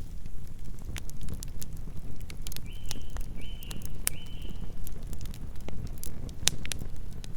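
Campfire burning, with irregular sharp crackles and pops over a low rumble. Three short high chirps come a little under halfway through.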